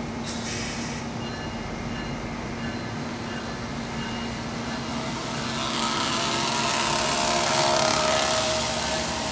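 Amtrak passenger coaches rolling slowly past as the train pulls out of the station, with a steady hum. Wheel and rail noise swells and grows louder about six seconds in.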